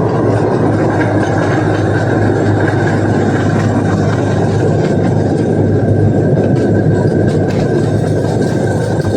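Zoo train running steadily: a constant low engine hum under the rolling noise of the cars, with a few faint clicks.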